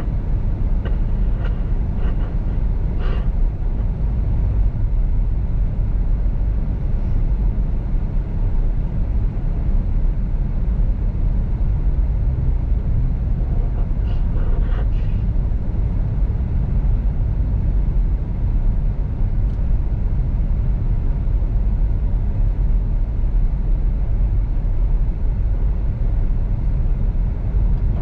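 Steady low rumble of a car driving, heard from inside the cabin: engine and tyres on a snow-covered road.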